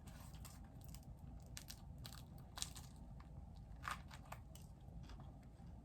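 Close-up eating sounds: a person biting and chewing baguette bread, with scattered soft crunches and mouth clicks, the loudest about two and a half and four seconds in.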